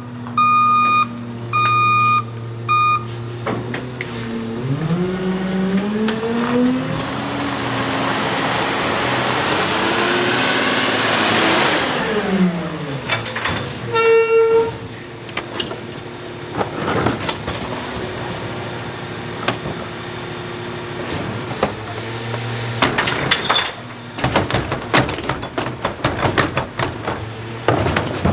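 Garbage truck's reverse alarm beeping about once a second, stopping about three seconds in. The truck's engine then revs up and holds high with a rising hiss before dropping back, typical of a rear loader's packer cycle. Scattered knocks and clatter near the end.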